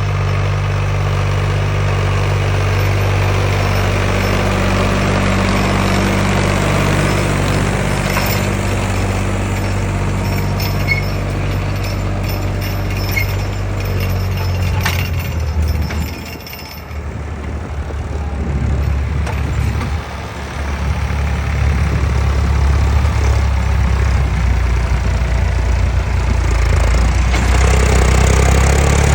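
Massey Ferguson 266 G tractor engine running steadily. About halfway through it dips briefly, then runs on at a deeper note that grows louder toward the end.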